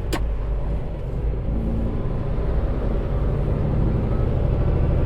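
Semi truck's diesel engine running low and steady, heard from inside the cab while driving, with one sharp click just after the start.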